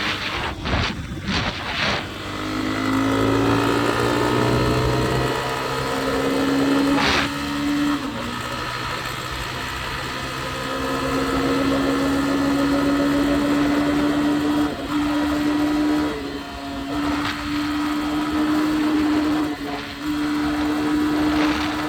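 A vehicle's engine being ridden: a few knocks at the start, then it speeds up with a rising pitch and runs steadily under way, dropping back briefly a few times as the throttle eases or it shifts.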